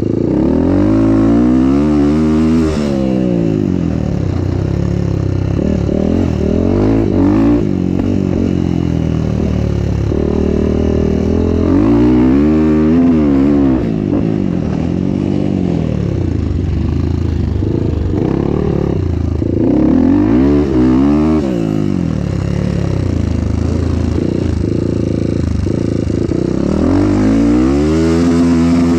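Motorcycle engine under way, its revs climbing and falling away again about five times as the rider opens and closes the throttle.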